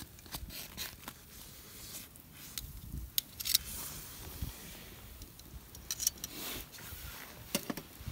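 Irregular clicks, scrapes and rustles, as of gear being handled, with a low rumble of wind on the microphone underneath.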